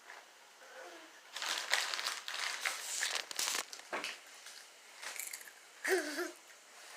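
Chip bag crinkling as it is handled, for a couple of seconds starting about a second in, with a short voice-like sound near the end.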